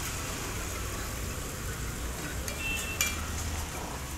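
Fried chole sizzling on a large flat griddle (tawa) as a metal spatula stirs and scrapes through it, with two sharp metal clinks about half a second apart past the middle.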